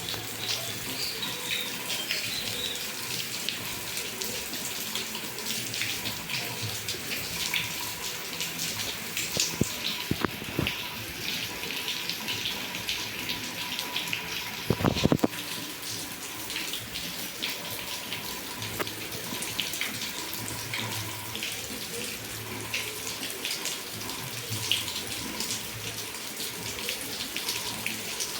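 Heavy rain falling, with water pouring and splashing steadily and many sharp drop hits. A brief loud thump about halfway through.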